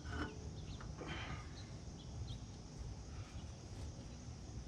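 Outdoor rural ambience: a steady low rumble with a few faint, short bird chirps, and a couple of brief muffled sounds in the first second or so.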